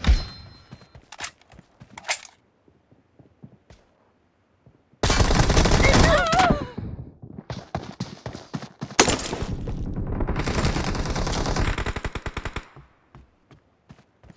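Video game gunfire: a single shot at the start, then two long bursts of rapid automatic fire, one about five seconds in and a longer one from about nine seconds, with faint ticks between.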